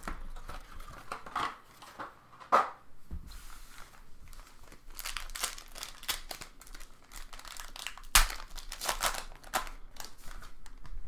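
Foil trading-card pack wrappers crinkling and tearing as packs are opened by hand, with two sharper snaps about two and a half seconds in and about eight seconds in.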